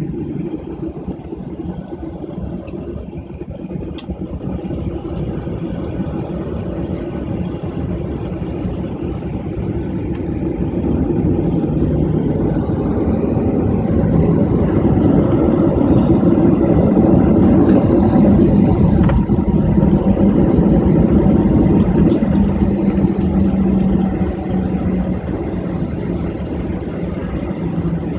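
Jet engine noise of a Jeju Air Boeing 737-800 heard inside the airliner cabin. It is a steady hum that swells louder about halfway through, with a high whine rising, then eases slightly near the end.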